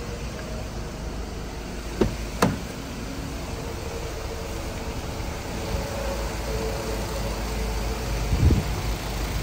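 2012 Chevrolet Cruze engine running at idle with the knocking noise the mechanic likens to a tractor, a fault that a new cylinder head has not cured. Two sharp clicks come about two seconds in, and the engine note rises slightly toward the end.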